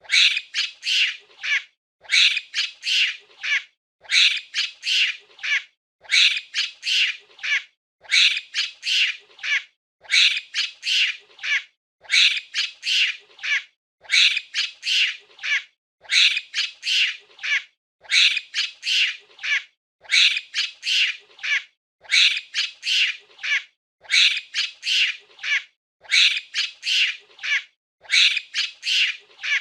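Monkey screeching: a burst of several rapid, high-pitched squawking calls about every two seconds, the same burst repeating over and over as a loop.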